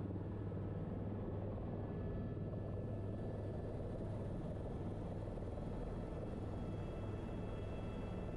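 Helicopter in flight: a steady, even drone of engine and rotors, strongest low down, with a few faint steady tones above it and no change in level.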